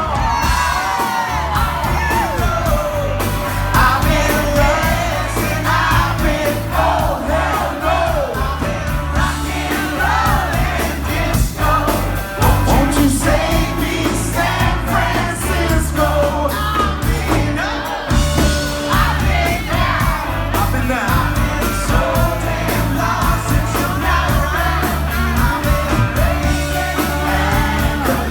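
Live pop-rock band playing a song, with singing over a steady bass line.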